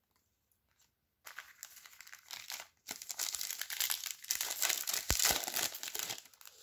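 Plastic trading-card pack wrapper being torn open and crinkled, starting about a second in and going on for about five seconds.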